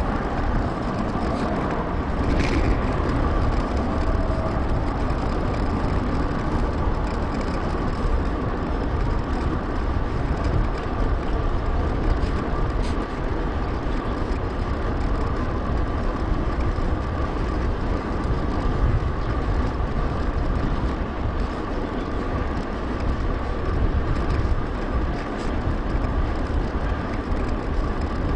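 Wind rumbling steadily over an action camera's microphone, mixed with tyre and road noise from a bicycle ride. One sharp click comes about two and a half seconds in.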